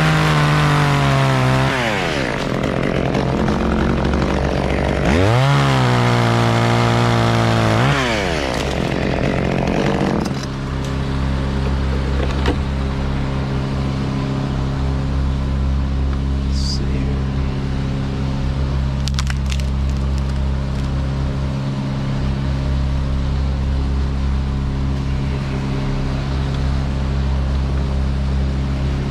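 Chainsaw cutting wood in two spells, revving up, holding under load, then dropping back. For the rest of the time an engine runs steadily at a constant low pitch.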